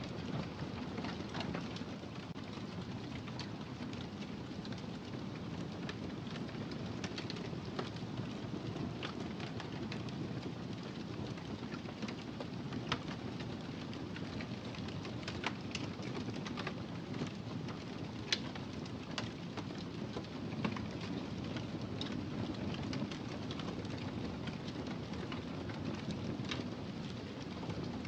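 Wood fire crackling in a fireplace: a steady low rumble of burning with scattered sharp pops and crackles.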